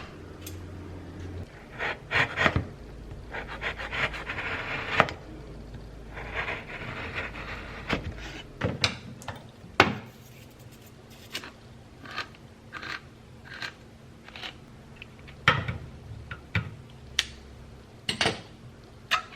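Kitchen handling sounds: many short clicks and knocks of dishes and utensils, with two stretches of rubbing and scraping a few seconds in.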